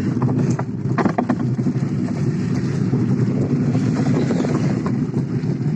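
A vehicle rumbling steadily as it moves along, with scattered rattles and clicks.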